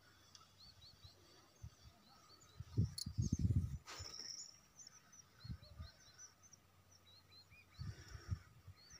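Small birds chirping repeatedly in short, quick notes. About three seconds in there is a loud burst of low rumbling on the microphone, with a couple of sharp clicks.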